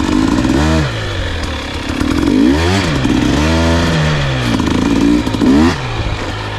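Dirt bike engine running along a trail, its pitch rising and falling several times as the throttle is opened and closed.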